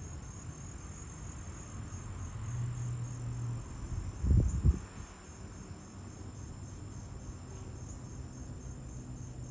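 Crickets chirping in a steady, high-pitched, evenly pulsing chorus, with a brief low thump about four seconds in.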